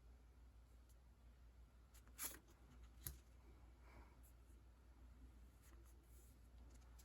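Near silence with room hum, broken by a short rustle of sticker sheets being handled about two seconds in and a light tap a second later.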